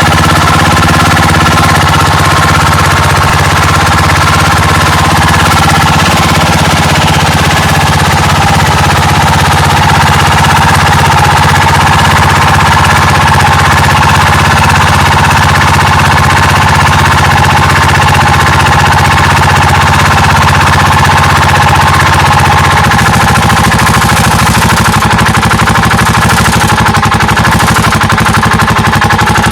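Yamaha Majesty C (SG03J) 250 cc scooter engine running steadily with an abnormal rattling, 'shara-shara' noise that began while riding. The coolant temperature stays normal, and the cause is not yet known.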